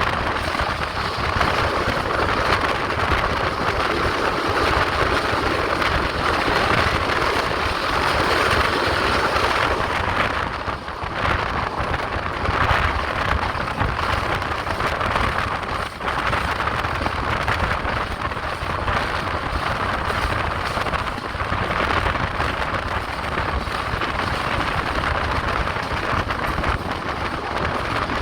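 Steady rush and rumble of the Trincomalee Special Express in motion, wheel-on-rail and wind noise heard from aboard the train. The noise dips briefly twice near the middle.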